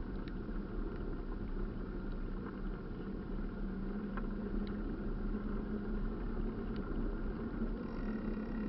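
A running engine: a steady low rumble with a constant hum.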